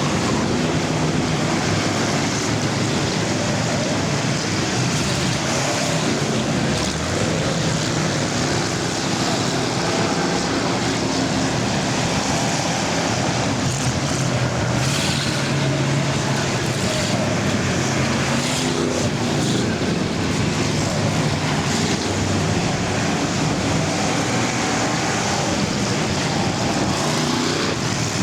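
Many stock car engines running together at racing speed in a big car enduro, a steady, continuous mass of engine noise with no single car standing out.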